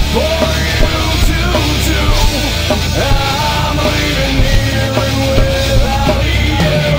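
Loud rock music with distorted guitars and a steady drum beat, a held vocal or lead line over it.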